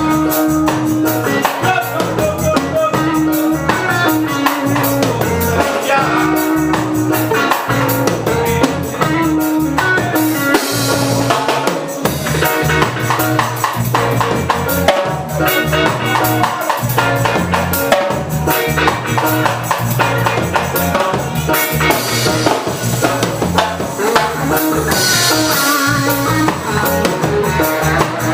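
Live reggae band playing an instrumental passage, with a drum kit and bass guitar keeping a steady groove.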